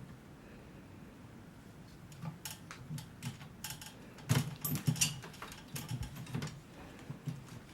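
Clothes rack and hangers clicking and rattling irregularly as a kitten climbs it, starting about two seconds in and busiest around the middle.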